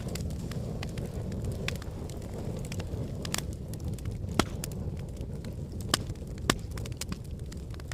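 Wood fire crackling in a fireplace: a steady low rumble of flames with scattered sharp pops and snaps, three louder pops in the second half.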